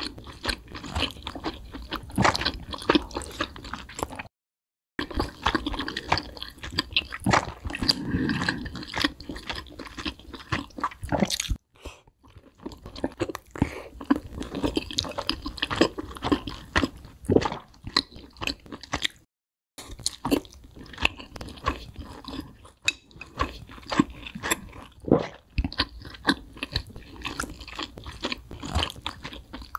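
Close-up chewing and crunching of crispy fried chicken wings: irregular wet bites and crackles, broken by three short dead-silent gaps.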